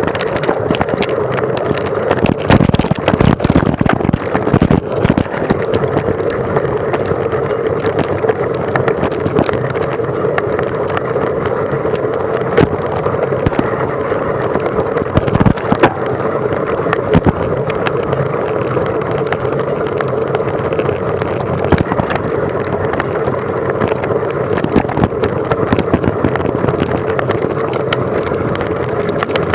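Onboard ride noise over a rough dirt track: a steady rumble with many short knocks and rattles, as from a camera being jolted along on a moving bike or vehicle.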